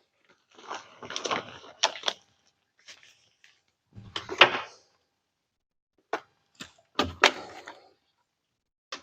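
Metal engine parts and tools being handled during engine assembly: irregular clinks, knocks and clatter in several short clusters, the loudest about four and a half and seven seconds in.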